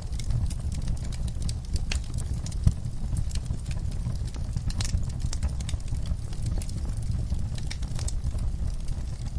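Wood fire burning in a fireplace: a steady low rumble with frequent sharp crackles and pops, one louder pop a little under three seconds in.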